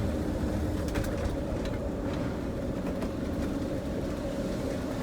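Steady engine and road rumble inside a motorhome cab while it drives, with a low steady hum and a few faint rattles.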